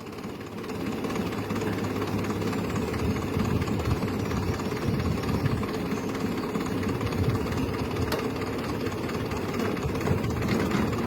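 Grey Fergie (classic Ferguson) tractor engine running steadily under load while the tractor pulls on a tree stump.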